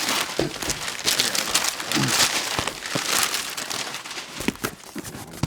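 Paper packaging crinkling and rustling as it is handled, with scattered sharp clicks; it dies down near the end.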